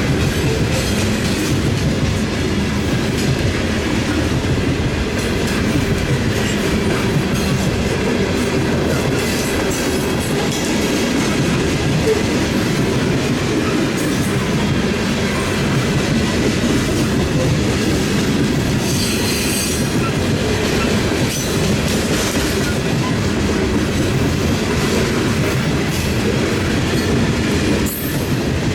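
A long Norfolk Southern freight train's cars rolling steadily past, wheels clattering over the rail joints, with a brief high wheel squeal about two-thirds of the way through.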